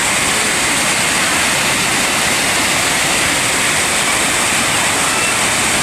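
Steady rushing of a flooded river's fast water.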